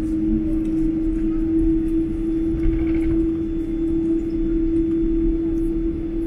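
Steady cabin noise of a Boeing 777-200 on the ground just after landing: a constant low droning tone over a low rumble.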